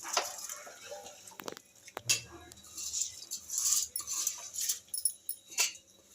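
Rice being tipped into a pot of boiling water for biryani: bursts of hiss and rattle, with a few sharp clinks of a metal utensil against the pot.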